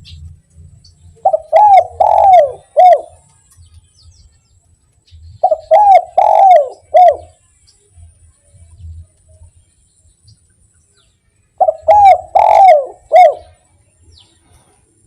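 Spotted dove (derkuku) singing its 'kuk 1' song: three cooing phrases a few seconds apart, each four hoarse coos with the last one short and set a little apart.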